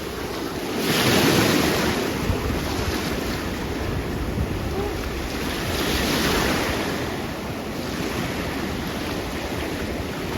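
Surf washing onto the beach in slow swells, one about a second in and another around six seconds, with wind buffeting the microphone underneath.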